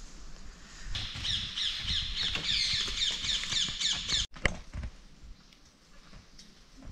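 A bird calling in a rapid run of short, repeated high chirps for about three seconds, stopping abruptly, followed by quieter forest background.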